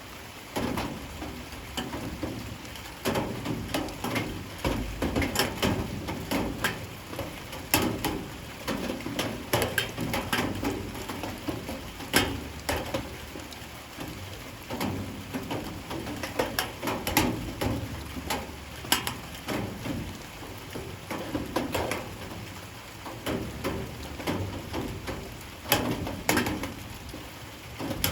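Light rain falling, with many irregular sharp drops tapping on hard surfaces over a steady patter.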